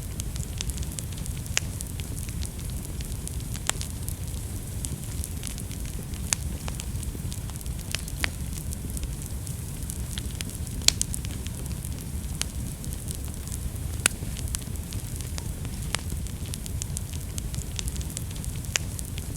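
Wood fire burning in a fireplace: a steady low rumble and hiss of flames with frequent sharp, irregular crackles and pops, a few louder pops standing out.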